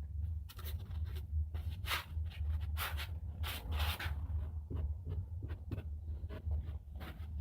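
Paintbrush sweeping metal filings off a hand-sharpened ski's steel edges: a run of short, irregular light scratchy strokes, over a steady low hum.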